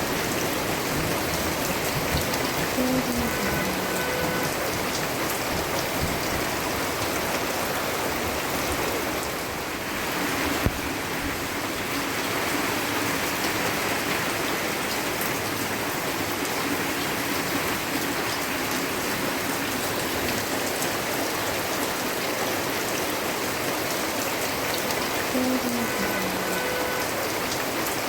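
Steady rain falling, an even hiss of drops, with a brief dip in level and a single sharp click about ten seconds in.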